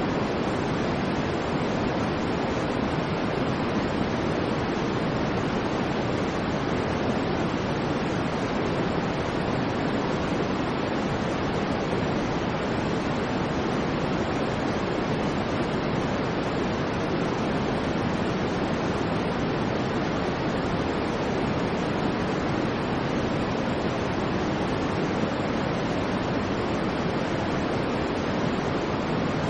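Generated white-noise track: a steady, even rushing noise that never changes, deeper than a thin hiss, with most of its weight in the lower range.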